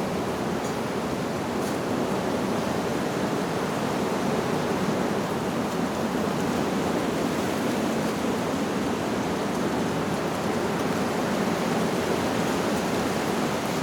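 Steady rushing noise of wind blowing through tree leaves.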